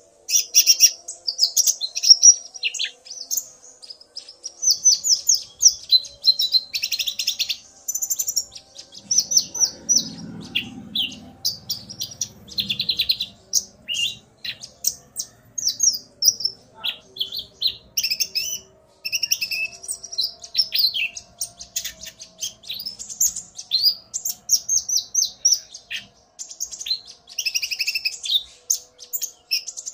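Konin (kolibri ninja) sunbirds calling back and forth in rapid, high, twittering chirps and trills with hardly a pause: a male singing hard, provoked by a female's calls. A faint low rumble comes in briefly about a third of the way through.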